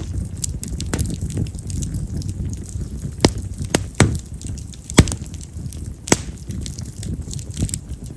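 Split wild cherry (yamazakura) firewood crackling in a campfire: sharp pops at irregular intervals, the loudest about five seconds in, over the low rush of the flames.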